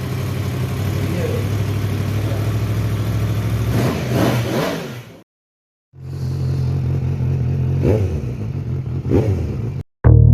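Sport motorcycle engine idling with quick throttle blips that rise and fall in pitch, about four seconds in and twice more near the end. The sound cuts out completely for under a second partway through, then the engine picks up again.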